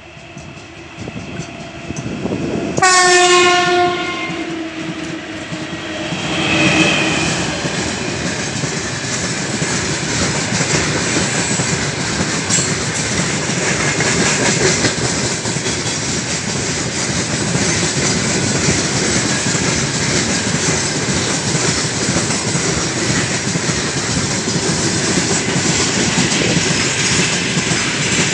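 3ES5K 'Ermak' electric locomotive sounds its horn as it approaches at the head of a heavy freight train: one loud, steady note lasting about a second, about three seconds in, then a shorter, higher tone a few seconds later. The locomotive then passes, and a long line of freight wagons rolls by with a steady rumble and clickety-clack of wheels over rail joints.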